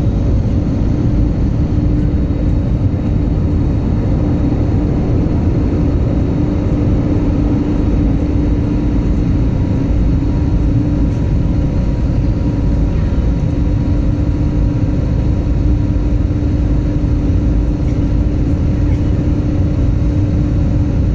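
Jet airliner cabin noise: a steady rumble of engines and airflow with a constant hum running through it, unchanging throughout.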